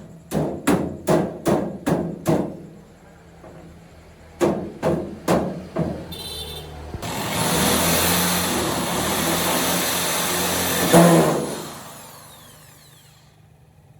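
Hammer blows, about two or three a second: six, a short pause, then four more. A power tool then starts with a brief whine, runs steadily for about four seconds, and winds down with a falling whine.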